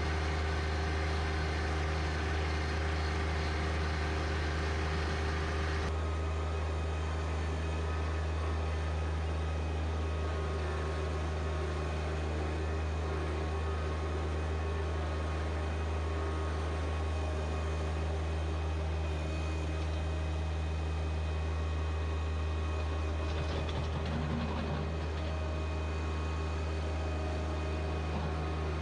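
John Deere 1025R compact tractor's three-cylinder diesel engine running steadily at a constant speed. About six seconds in, the higher-pitched hiss over the engine drops away, and the low engine hum carries on unchanged.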